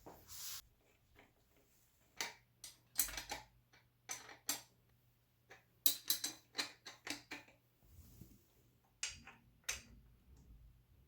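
Irregular sharp clicks and light taps, some in quick clusters, with the loudest group a bit past the middle.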